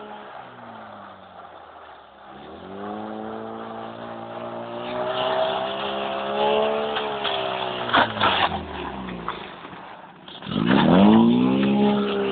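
Toyota Corolla engine revving up and down as the front-wheel-drive car is drifted on ice, with several rising and falling revs, the loudest near the end. A few sharp clicks come about eight seconds in.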